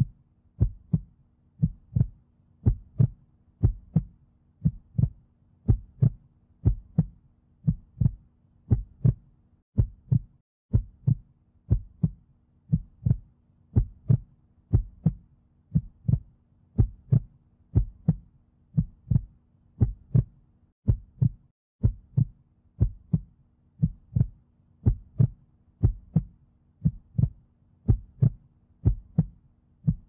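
Heartbeat sound effect: steady low double thumps (lub-dub), about one beat a second, with a faint hum between beats. The beating stops briefly about a third and two-thirds of the way through, then carries on.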